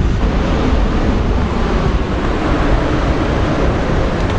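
Wind buffeting the microphone: a loud, steady rushing noise that is heaviest in the low end.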